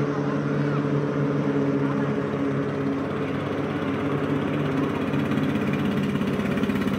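Racing boats powered by Mitsubishi L300 car engines running at a steady drone, the engine pitch holding nearly constant.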